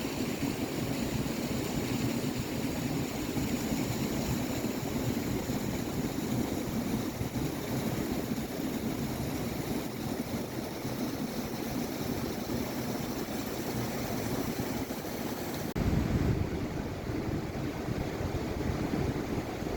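Rushing river water, a steady even noise. About sixteen seconds in it changes abruptly to a deeper rumble.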